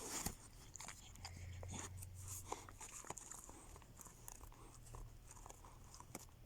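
Puppy chewing, with faint irregular crunching and small clicks.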